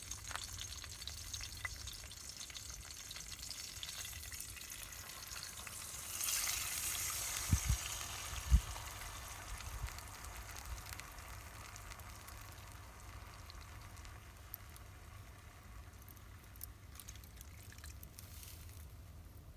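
Pork sizzling over a campfire: a steady frying hiss that swells about six seconds in and then slowly dies back, with two dull low knocks in the middle.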